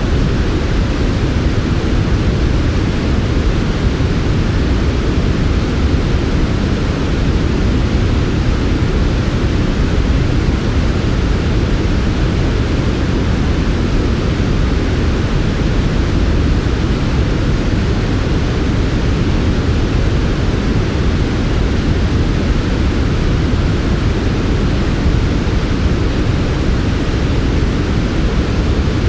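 Steady, unchanging synthetic white noise for sleep, weighted toward the low end: a deep, even rush with a softer hiss above it.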